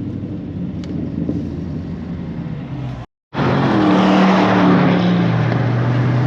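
Cadillac CTS-V's V8 exhaust running with a low, steady note. After an abrupt cut about three seconds in, a louder car engine note comes in over a wide rush of noise, its pitch sinking slowly.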